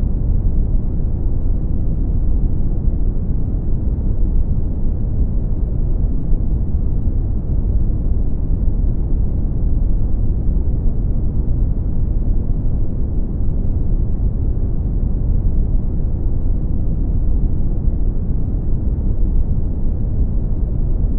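Brown noise: a steady, deep rumbling hiss, strongest in the bass and dull in the treble, unchanging throughout.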